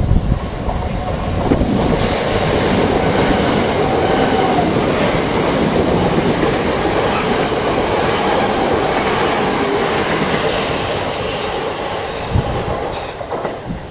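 A train passing close by on the track. Its noise builds about a second and a half in, holds steady and loud for about ten seconds, then fades near the end.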